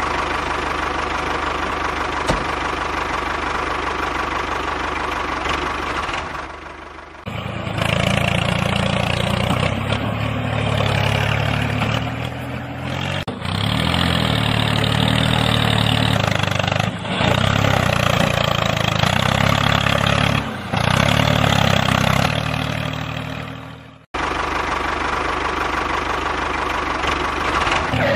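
An engine running steadily. About seven seconds in it becomes louder and deeper, and it breaks off abruptly several times before going on.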